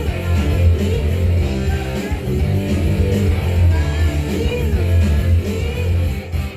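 Rock-pop band music led by guitar, with strummed chords over a steady bass line and a gliding melodic line on top.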